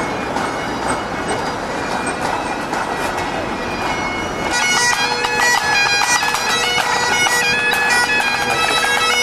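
Bagpipes playing: steady drones under a chanter melody, coming in clearly about four and a half seconds in over a steady hum of street noise.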